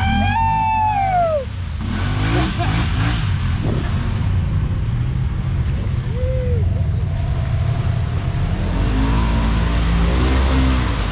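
Side-by-side UTV engine running steadily while riding, with a short shout about a second in and another brief call around the middle.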